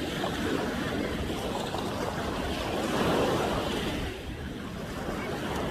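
Ocean waves breaking and washing on the shore at high tide, swelling to a louder crash about three seconds in, with some wind on the microphone.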